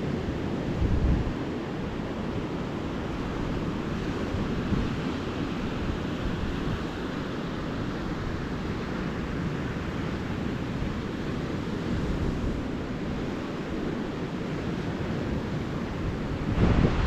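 Calm ocean surf washing steadily onto a beach, with wind buffeting the microphone in gusts, strongest about a second in and near the end.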